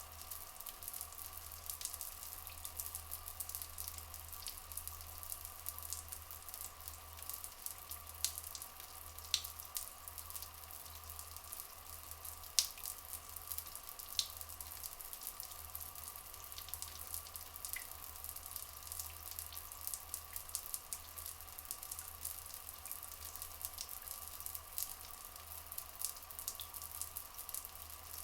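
Trickling, dripping water with a dense fine crackle, over a steady low hum and faint steady tones. There are a few brief high chirps.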